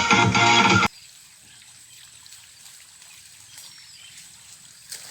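Music that stops abruptly about a second in, then faint outdoor ambience: a soft hiss like trickling water, with a single faint bird chirp in the middle.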